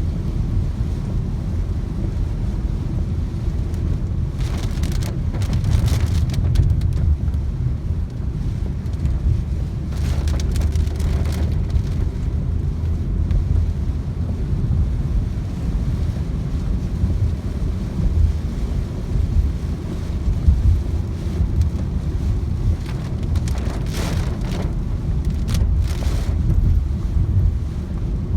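Heavy downpour, with wind buffeting the microphone as a steady low rumble; several brief louder rushes of water noise come and go.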